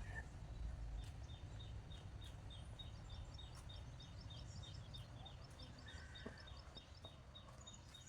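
Faint bird calls: a long series of short, high, falling chirps repeating about four times a second, joined partway through by a second, higher series, with a brief lower call about six seconds in, over a low steady background rumble.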